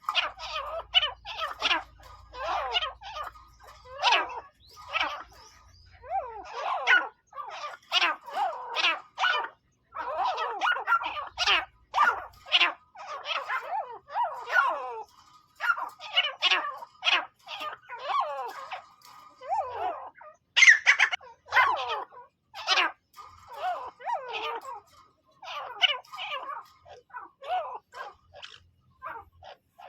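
Teetar (francolin) calling: a long run of short, harsh repeated notes, several a second, broken by brief pauses, loudest a little past the middle.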